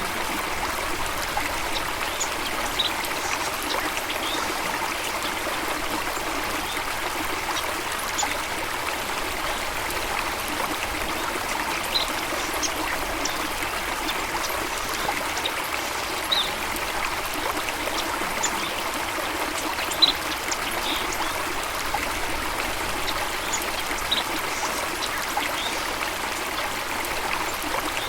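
Stream water running and trickling steadily, with short high-pitched blips every few seconds.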